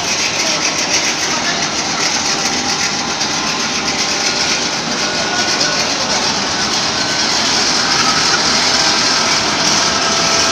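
Aluminum welding wire drawing machine (wet drawing line) running: a steady, dense mechanical noise with faint high tones, getting slightly louder in the second half.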